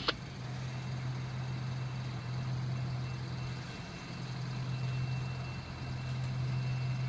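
Fire engine idling steadily with a low, even hum. There is a short click right at the start as a radio transmission ends.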